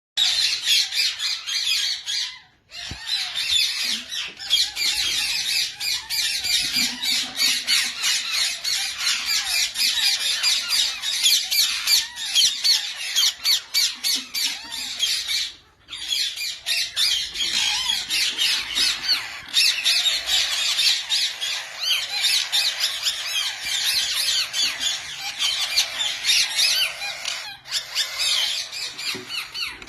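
Yellow Indian ringneck parakeets squawking and chattering nonstop, many shrill overlapping calls, with two brief breaks, one about two and a half seconds in and one near the middle.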